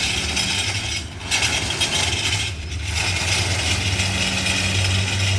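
Freight train rolling slowly to a stop: a steady metallic rush of braking wheels on rail, twice dropping off briefly, over the low steady drone of diesel locomotive engines.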